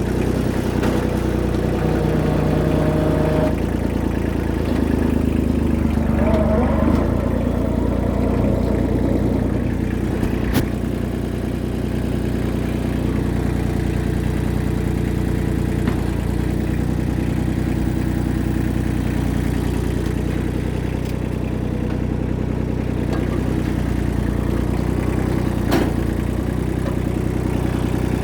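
Tractor engine running steadily, with two sharp knocks: one about ten seconds in and one near the end.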